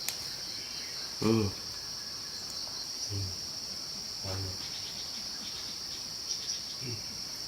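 Steady, high-pitched chorus of insects such as crickets, with a few short murmured voice sounds about one, three, four and seven seconds in.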